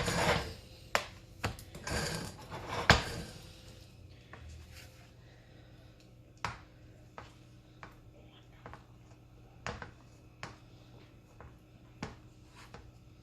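Chicken being added to a pan of thick filling and stirred in with a utensil. A cluster of scraping and clattering comes first, with a sharp knock about three seconds in. After that come scattered lighter knocks of the utensil against the pan, about one a second.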